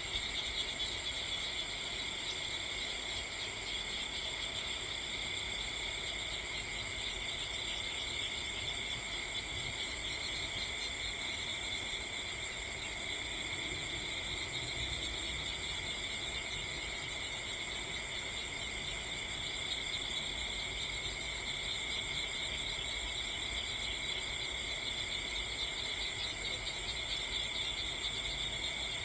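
A steady, unbroken chorus of insects chirping at several high pitches at once.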